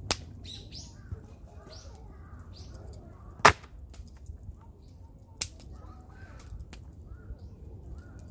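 Sharp, dry cracks of wood, one about every two seconds, the loudest about three and a half seconds in. They are the sound of sticks snapping or wood popping at a campfire. Birds chirp faintly behind them over a low steady rumble.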